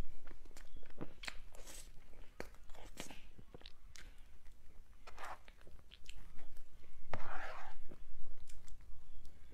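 Close-miked mouth sounds of someone eating soft cream cake: irregular wet chewing, lip smacks and small clicks, with a longer wet squelch about seven seconds in.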